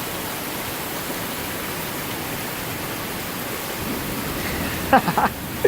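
Steady hiss of heavy rain falling in a thunderstorm.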